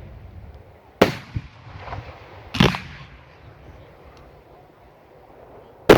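Fireworks going off: three sharp bangs, about a second in, a second and a half later and near the end, the last one the loudest.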